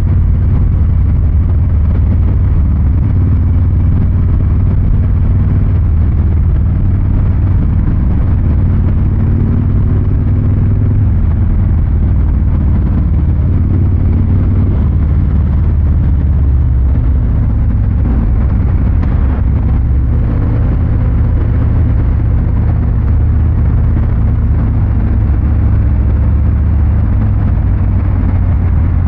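Harley-Davidson Fat Boy 114's Milwaukee-Eight 114 V-twin running through its exhaust with a deep, steady rumble, holding an even engine speed without hard revving.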